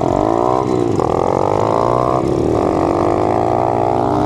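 Dirt bike engine revving under way: the pitch dips, then climbs as the bike accelerates, then holds at a steady run.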